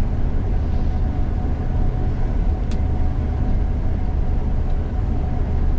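Steady running drone of a Gleaner combine harvester working through soybeans, with a faint steady whine and a single light click about three seconds in.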